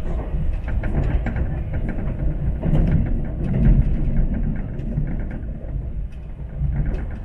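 Running noise of an E4 series MAX double-decker Shinkansen heard inside the passenger car: a steady low rumble that swells about halfway through, with scattered light clicks and rattles.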